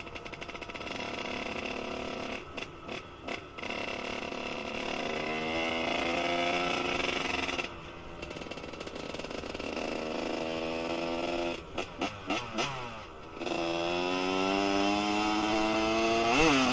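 Kawasaki KX125's 125 cc single-cylinder two-stroke engine with a Pro Circuit R-304 shorty silencer, revving up in long pulls that rise in pitch, the throttle closing between them. A few quick stuttering blips come about twelve seconds in, and a sharp rev spike near the end.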